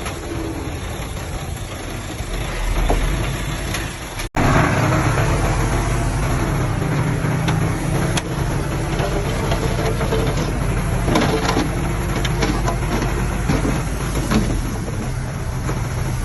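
Diesel engines of heavy earth-moving machinery running steadily. There is a sudden break about four seconds in, after which the engines are louder.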